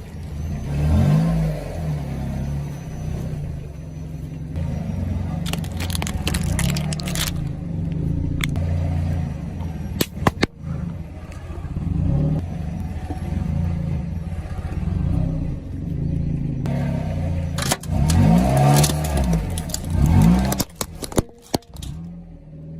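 Car engine running, its revs rising and falling several times, with clusters of sharp crackling clicks at a few moments.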